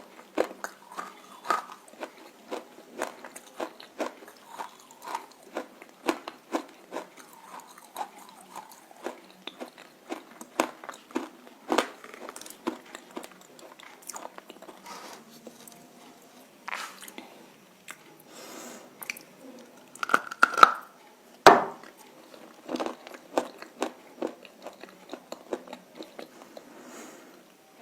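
Roasted clay chunks being bitten and chewed: a string of sharp, irregular crunches about one or two a second, with softer chewing between them. The sharpest crunch comes about two-thirds of the way in.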